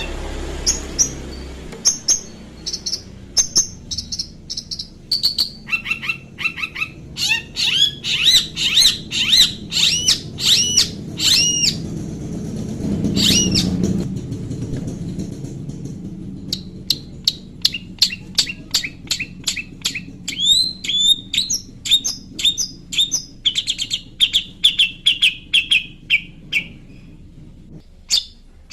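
Long-tailed shrike (cendet) singing: rapid strings of short, sharp chirps and arched whistled notes, each phrase repeated several times before switching to another.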